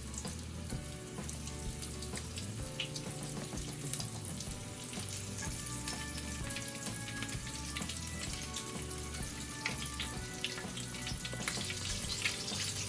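Floured chicken pieces frying in hot oil in a skillet: a steady sizzle with scattered crackles, growing louder near the end.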